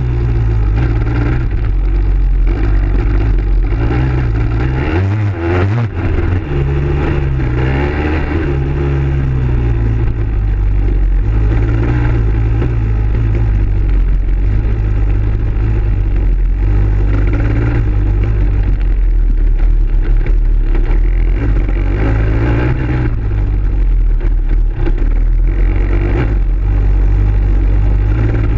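Dirt bike engine running continuously while being ridden, its pitch rising and falling as the throttle opens and closes, over a steady low rumble.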